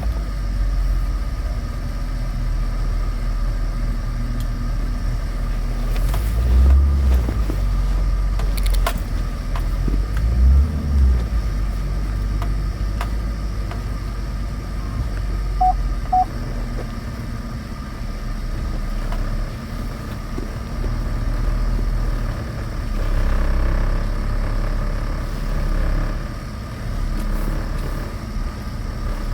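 2013 Chevrolet Avalanche's V8 engine running with a steady low rumble; twice, about 7 and 11 seconds in, its pitch briefly rises and falls.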